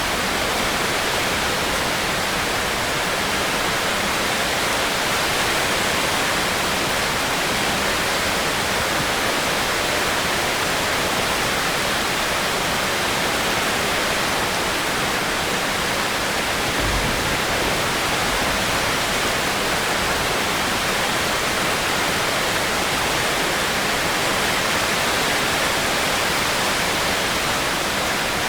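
Steady heavy rain: a dense, even hiss of falling rain that holds at one level throughout, with a brief low thud about halfway through.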